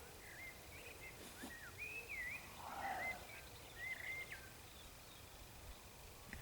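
Songbird singing: a string of short, quick chirping phrases over the first four seconds or so, faint against quiet outdoor background noise.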